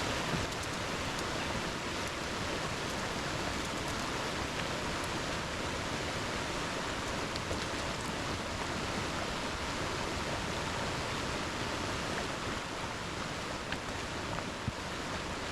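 Mountain stream rushing steadily over stones, with a few faint clicks now and then.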